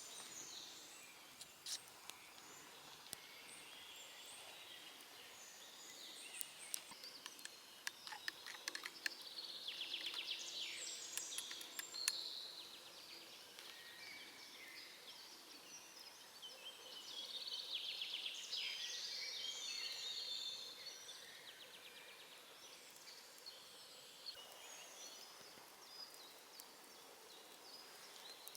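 Faint woodland ambience. Birds sing in two phrases a few seconds long, about a third of the way in and again past the middle, with scattered sharp clicks between them.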